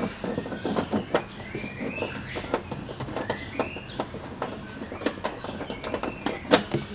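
Small birds chirping repeatedly, with scattered light clicks and taps; the sharpest tap comes about six and a half seconds in.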